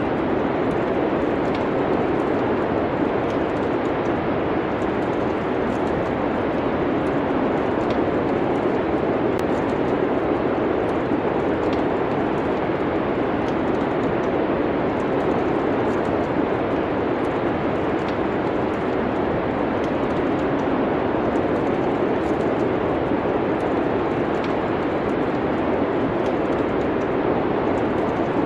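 Steady rushing wind of a snowstorm, with the faint scattered crackle of a wood fire.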